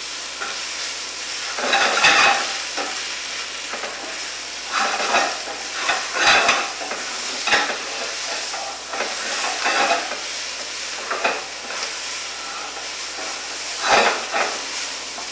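Sweet potato and spinach frying in a pan with a steady sizzle, while a utensil stirs and scrapes through it in irregular strokes, loudest about two seconds in, around six seconds and near the end.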